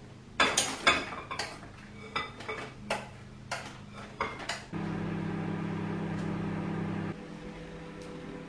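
Dishes and cutlery clinking and knocking in a run of sharp clicks, followed by a steady electric hum that starts about halfway through and cuts off suddenly a couple of seconds later, leaving a fainter hum.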